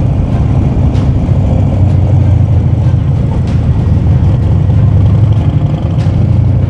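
Harley-Davidson V-twin motorcycle engine running steadily while the bike is under way on the road.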